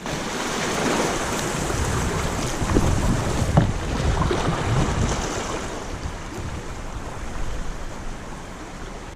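Rushing river water with wind buffeting the microphone in a low, fluctuating rumble. A single sharp knock comes about three and a half seconds in.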